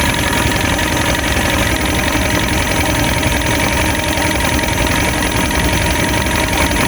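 Boat motor running steadily at a constant low speed.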